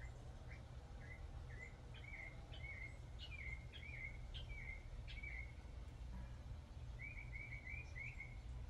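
A songbird chirping in quick runs of short notes, a long run through the first half and a shorter one near the end, over a low steady rumble.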